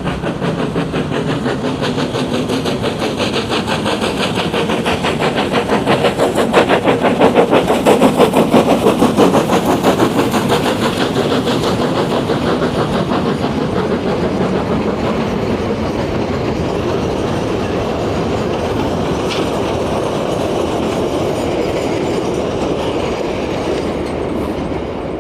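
Early-1900s steam locomotive working up a grade, its exhaust chuffing in a fast, even beat as it passes. The chuffing is loudest about a third of the way in and eases slightly after.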